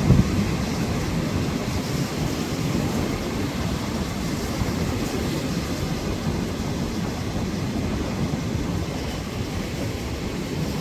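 Storm wind buffeting the microphone over crashing surf: a loud, steady low rumble of noise, with a stronger gust right at the start.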